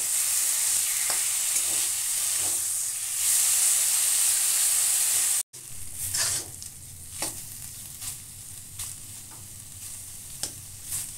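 A sticky date, cashew and raisin filling sizzling in ghee in a metal kadai as a steel spatula stirs it, the filling being cooked down until dry. About five seconds in, after a cut, the sizzle is quieter and the spatula scrapes and taps against the pan every second or so.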